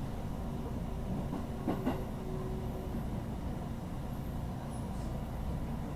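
Cabin noise of a JR 221 series electric train running: a steady low rumble, with a quick pair of clicks about two seconds in.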